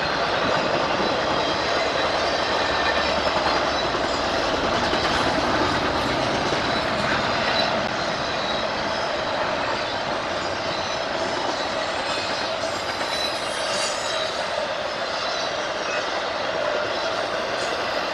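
A train rolling past a grade crossing, with steady wheel-on-rail noise that eases slightly about halfway through.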